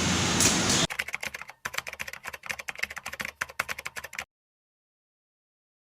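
A quick, irregular run of sharp clicks and taps, several a second, lasting about three seconds before the sound cuts off abruptly to dead silence.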